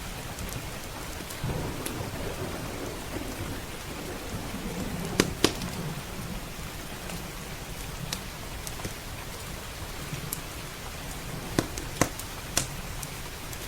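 Steady heavy rain with a low roll of thunder in the first half. A wood fire pops sharply, twice about five seconds in and three times near the end.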